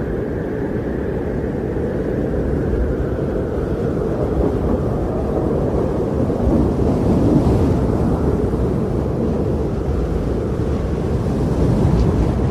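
Wind blowing steadily, a low, deep rush with no distinct events, swelling gently about halfway through and again near the end.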